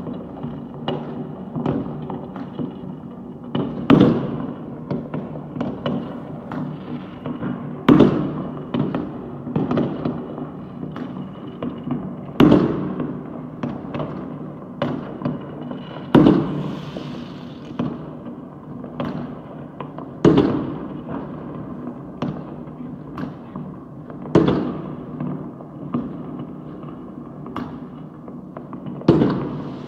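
Fireworks going off all over a city: a steady din of many pops and crackles, with a louder bang about every four seconds, each followed by a rumbling tail.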